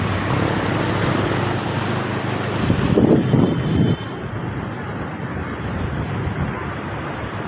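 Floodwater rushing and splashing as a motorbike rides through it, with wind buffeting the microphone. A louder surge about three seconds in cuts off sharply about a second later.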